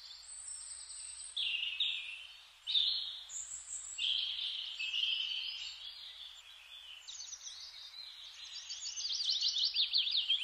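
Birds chirping and singing: many short calls and trills, with a fast run of quick rising-and-falling notes in the last few seconds.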